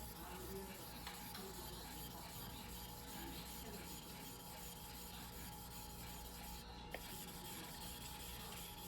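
Steel knife blade, a yanagiba, rubbed back and forth on a whetstone in hand sharpening: a faint, steady rasping scrape. A single sharp click comes about seven seconds in.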